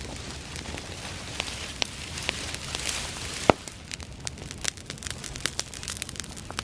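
Bonfire of dry summer grass burning: a steady rush of flame with many sharp crackles and pops, the loudest pop about three and a half seconds in.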